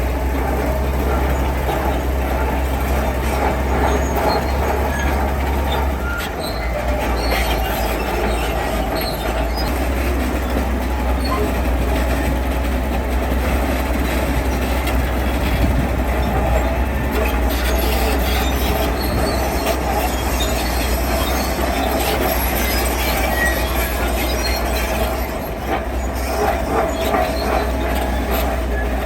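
Heavy construction machinery at work: a diesel engine running steadily under a constant metallic squealing and clatter, with scattered clanks. The engine note shifts briefly about six seconds in and again near the end.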